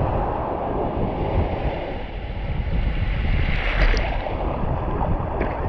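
Wind buffeting the microphone over the wash of surf, a steady rumbling noise that swells briefly about four seconds in.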